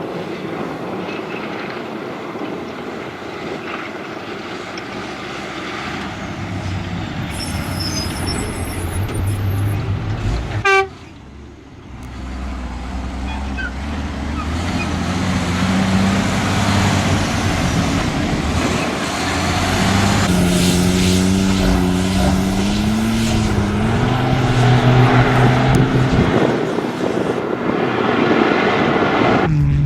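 MAN rally truck's diesel engine running hard at speed, with wind noise; its note glides up and down in the second half as the truck changes speed. A short pitched toot sounds about eleven seconds in, just before the sound drops away sharply.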